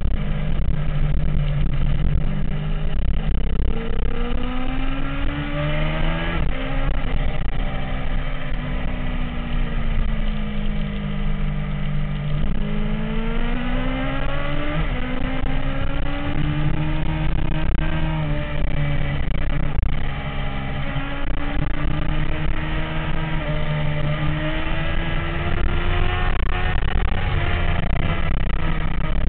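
MV Agusta F4 motorcycle's inline-four engine running, its pitch rising and falling several times, with sharp climbs about six and twelve seconds in.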